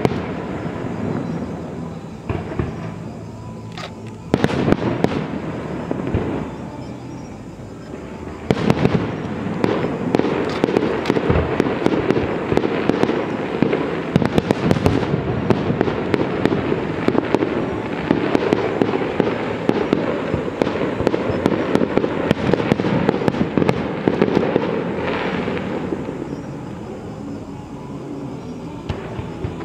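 Aerial fireworks display: a few separate loud bangs, then from about nine seconds in a dense barrage of rapid bangs and crackling that eases off near the end.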